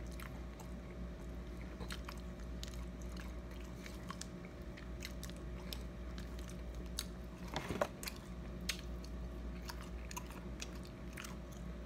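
Close-up eating of fried breaded fish: chewing, with many small crisp crunches of the breading and a louder crunch about two-thirds of the way through. A steady low hum runs underneath.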